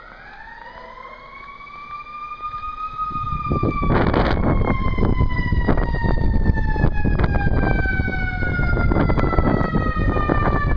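Emergency vehicle siren wailing: one long slow wail that rises in pitch over the first few seconds, then slowly falls. From about four seconds in, loud wind buffeting the microphone covers much of it.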